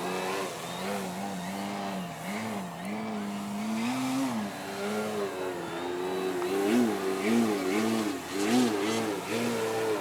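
Radio-controlled Slick 3D aerobatic airplane's motor and propeller, its pitch rising and falling over and over as the throttle changes through the manoeuvres. The pitch swings come quicker in the second half.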